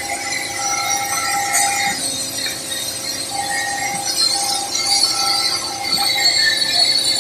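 Atlas Copco Simba S7D longhole drill rig drilling with T-38 extension rods: a steady high hiss with ringing metallic tones that come and go.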